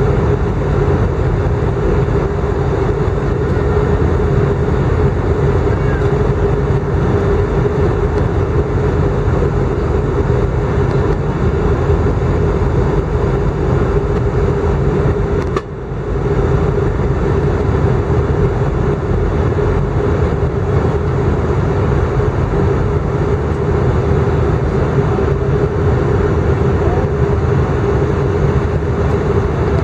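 Airbus A319 cabin noise in flight: the steady rush of the jet engines and airflow, with a steady hum in it. The sound dips briefly about halfway through.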